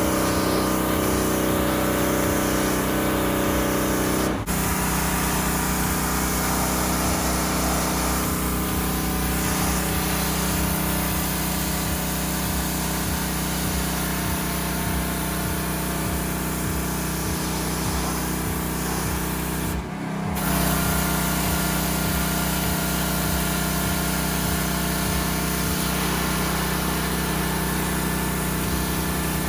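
Pressure washer running steadily, its motor humming under the hiss of the water jet spraying. The sound breaks off for a split second twice, about four seconds in and again about twenty seconds in.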